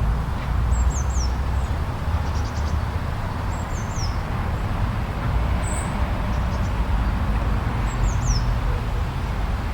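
Steady low rumble of snowstorm wind, with a bird's short, high, falling chirps repeating about every three to four seconds.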